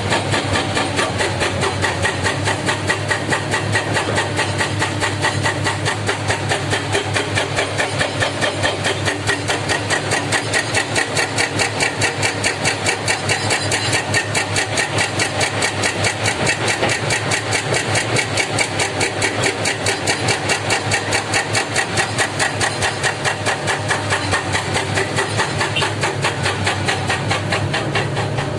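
Heavy diesel engine of earthmoving machinery running steadily, with an even, rapid pulsing throb.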